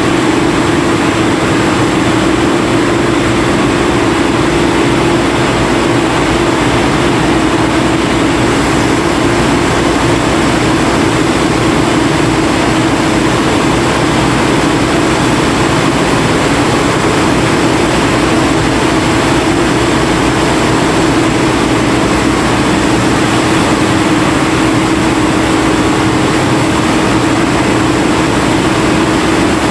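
Engine machinery of an ore suction-dredge boat running steadily and loudly, with a constant hum over a dense mechanical noise.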